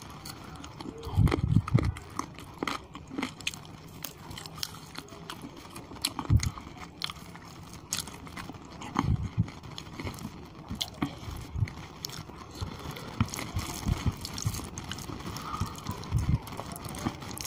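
Close-miked chewing and biting as chicken curry and khichuri are eaten by hand: irregular mouth clicks, with a few heavier low thumps about one and a half, six and nine seconds in.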